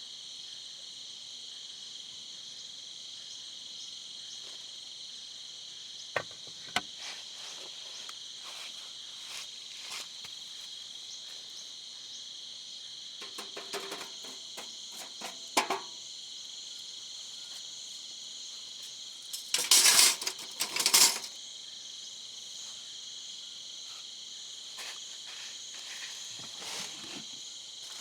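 Crickets chirring in a steady, high-pitched chorus. A few sharp clicks and knocks cut in, and about two-thirds of the way through comes a louder, brief clattering burst.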